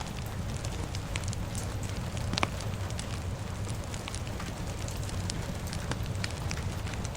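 Fire crackling with scattered sharp pops, one louder pop about two and a half seconds in, over a steady hiss of rain and a low rumble.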